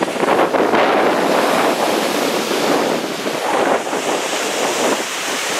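Lake Erie waves washing against the shore, with wind blowing across the microphone: a steady, surging rush of noise.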